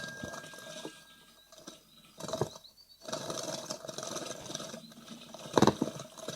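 Great tit nestlings moving about inside a wooden nest box: scratching, scrabbling and wing-fluttering, with faint high calls. A sharp knock about two and a half seconds in, and a louder one about five and a half seconds in.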